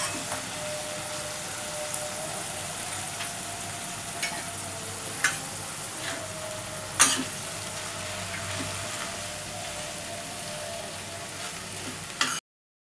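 Oil sizzling in a kadai of fried potatoes and peas as soaked poha is tipped in and stirred with a spatula, with a few sharp knocks of the spatula on the pan, the loudest about seven seconds in. The sound cuts off abruptly near the end.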